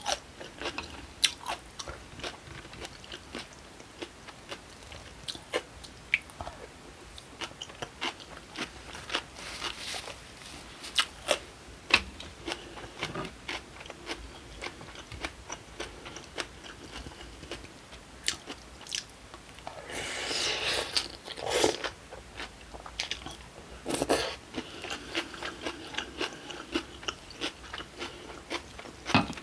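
Close-miked eating of acorn jelly rice in iced broth with kimchi and vegetables: steady chewing with many short crunches and mouth clicks, and a couple of longer noisy stretches about twenty seconds in.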